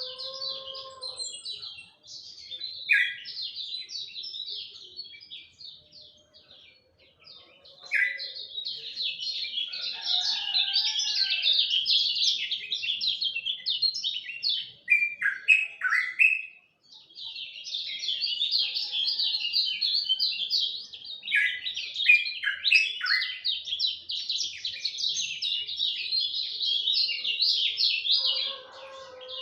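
Kecial kuning, a white-eye, singing a fast, high twittering song in long continuous runs, with two short pauses.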